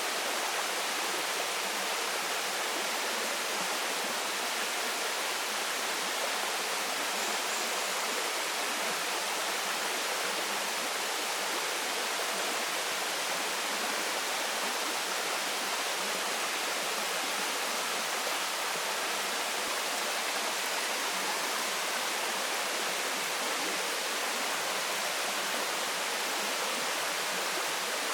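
Waterfall pouring steadily, a constant rushing hiss of falling water spread from low to very high pitches, without change.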